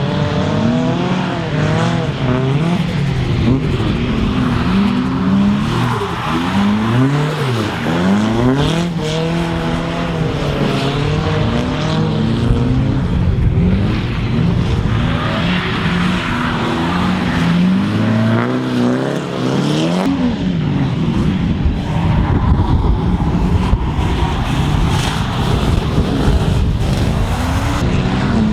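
Drift cars driven sideways on a wet track, engines revving hard with the pitch rising and falling over and over as the throttle is worked, over a steady hiss of tyres on the wet surface.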